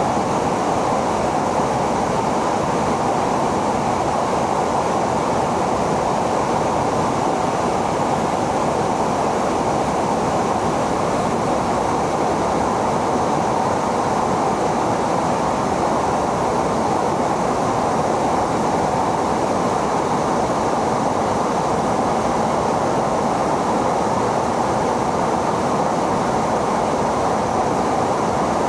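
Steady jet aircraft noise: an even rushing hiss with no rise or fall in pitch.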